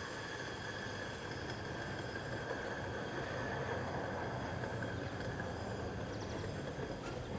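Rail-mounted weed sprayer running on the track: a steady low rumble with a steady high-pitched whine over it.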